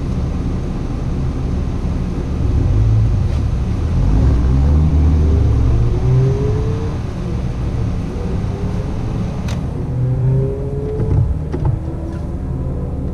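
Car engine idling, heard from inside the cabin. A Subaru wagon ahead launches off an autocross start line and accelerates away, its engine note rising twice as it pulls through the gears.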